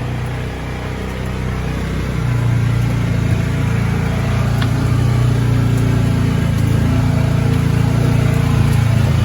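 Polaris Ranger 570 side-by-side's single-cylinder engine pulling hard up a steep hill climb, getting louder about two seconds in and then holding a steady, strong note under load.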